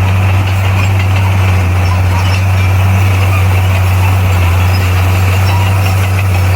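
Heavy earthmoving machine's diesel engine running steadily at constant speed, a deep even drone with no revving.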